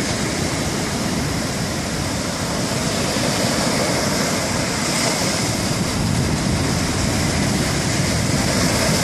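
Sea waves breaking and washing up on a beach: a steady rush of surf that swells a little about halfway through and again near the end.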